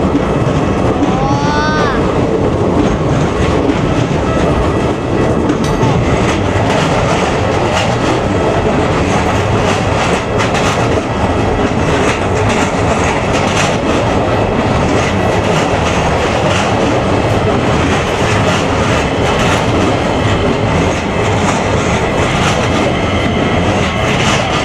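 A train running past at close range: steady loud wheel and running noise on the rails, with rail-joint clicks.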